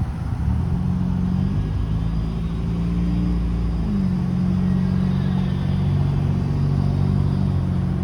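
A motor vehicle's engine running close by, steady with its pitch shifting slightly a few times.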